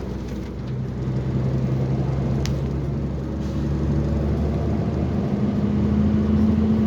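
Diesel engine of a Volvo excavator running steadily with a low drone, its pitch stepping up to a higher steady note about five seconds in as the engine speed rises.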